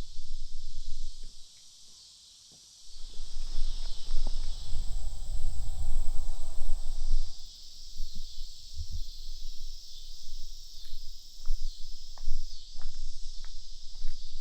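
Steady high-pitched drone of an insect chorus, with a slight pulse. Low wind rumble on the microphone in the first half, and scattered light clicks later on.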